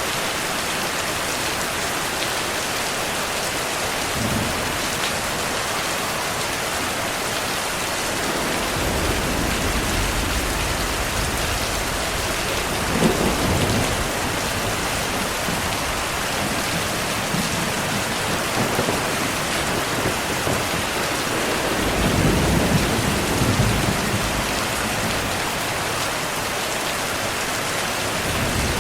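Steady heavy rain hissing on surfaces, with thunder rumbling low several times: a swell about a third of the way in, a sharper crack just before the middle, and a longer rumble about three-quarters of the way through.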